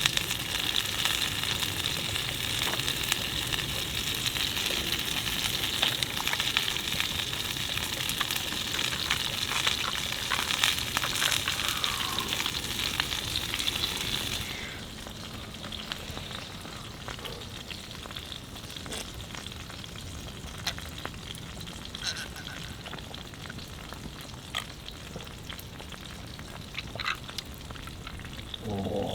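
Food frying in a pan over a campfire: a dense, crackling sizzle full of small pops. About halfway through it drops to a quieter, thinner sizzle with scattered pops.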